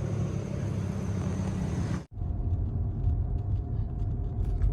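Car driving, heard from inside the cabin: steady engine and road noise. It breaks off suddenly about two seconds in and resumes as a lower rumble with a faint steady tone.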